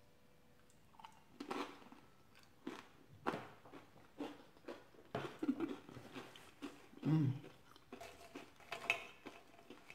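Someone chewing a mouthful of Frito Scoops corn chips topped with chili and melted cheddar: irregular crunches and crackles, with a brief low hum about seven seconds in.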